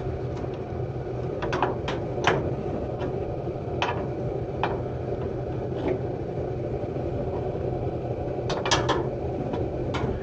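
Steady low hum of a running furnace, with scattered sharp clicks and clinks of metal parts and tools being handled, a cluster of them near the end.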